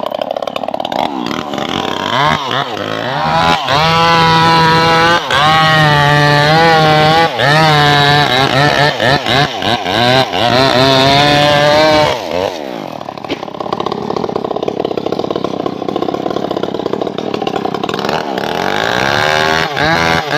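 Two-stroke chainsaw revving hard while cutting trembesi wood, its pitch dipping and rising as the load changes. About two thirds of the way in it drops back to a lower running speed, then revs up again near the end.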